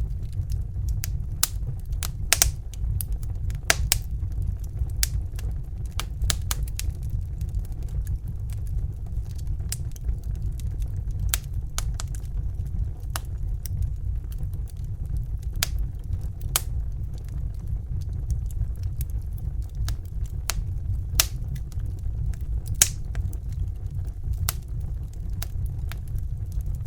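Crackling fire: irregular sharp pops and crackles, a few louder than the rest, over a steady low rumble.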